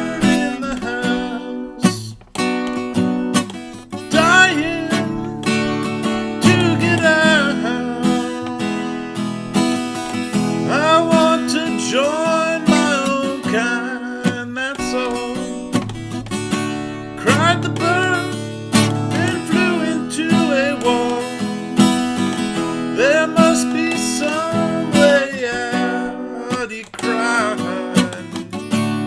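Acoustic guitar strummed in a steady rhythm, with a melody line sliding between notes above the chords.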